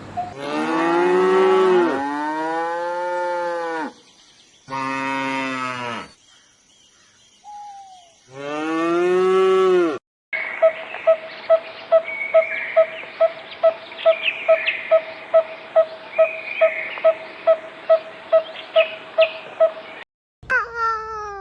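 Three long, deep animal calls, each bending in pitch like lowing. After a sudden cut comes a steady series of short piping notes, about two and a half a second, with higher chirps over them. Another falling animal call follows a cut near the end.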